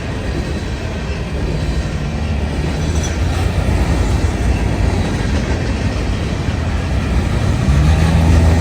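Grain train's covered hopper cars rolling past, with a steady rumble and wheels clattering on the rails. A steady pitched drone joins near the end as the sound grows louder.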